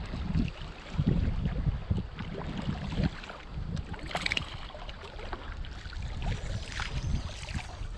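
Wind buffeting the microphone as an uneven low rumble, over the hiss of creek water running past a kayak, with a few light knocks and a brief brighter splash or rattle about four seconds in.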